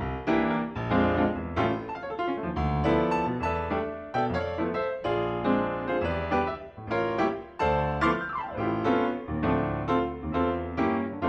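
Background piano music, many notes struck in a lively flowing pattern.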